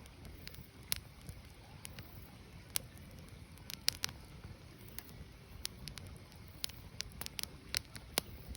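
Firewood burning, with irregular sharp pops and crackles over a low steady background.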